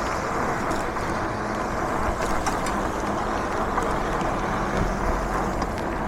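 Steady rushing noise of riding a fat-tyre e-bike in the rain: wind over the microphone and tyres hissing on the wet road, with small ticks scattered through it.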